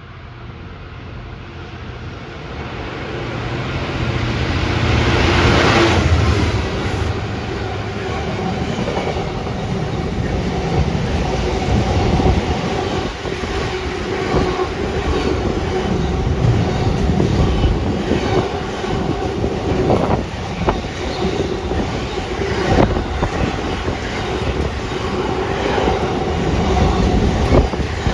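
A train approaching and running past close by. It grows louder over the first six seconds to a rushing peak, then a long run of rail wagons or coaches follows, with wheels clicking over the rail joints.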